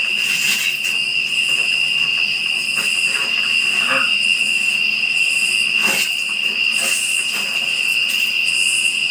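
A steady, high, unbroken trill from a cricket chorus, with a higher insect buzz above it that swells and fades about once a second.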